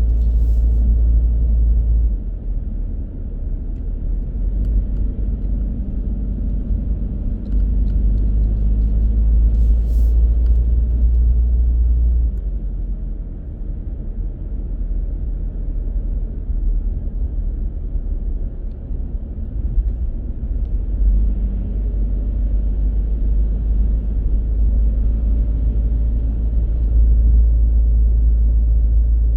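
Car being driven, heard as a continuous low rumble of engine and tyres on the road. It swells and eases in long stretches, heaviest for the first couple of seconds, again from about seven to twelve seconds in, and from about twenty-one seconds in.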